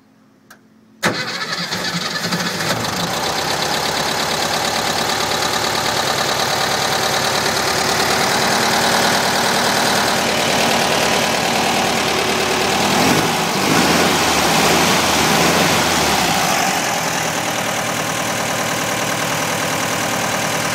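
VW 1600 single-port air-cooled flat-four engine catching and starting about a second in, then idling steadily, its sound shifting briefly a little past halfway.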